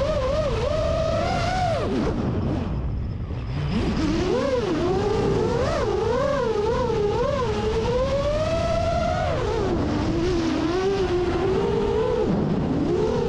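FPV racing quadcopter motors whining, the pitch wavering up and down with the throttle. About two seconds in the whine falls away almost to nothing, then climbs back and keeps warbling.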